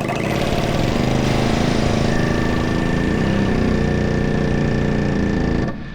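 Pneumatic air hammer running continuously against a truck's steering shaft to vibrate its joint apart; it cuts off suddenly near the end.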